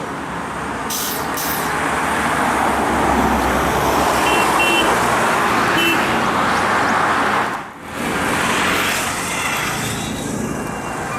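Busy road traffic noise as vehicles pass, swelling louder over several seconds, with a few short high beeps. About two-thirds through, the sound drops out sharply for a moment, then the traffic noise returns.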